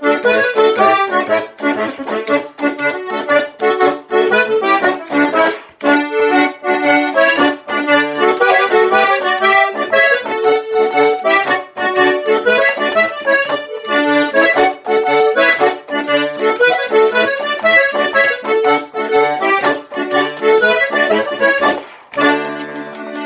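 Instrumental English folk dance tune, played briskly with quickly changing notes, finishing on a long held chord near the end.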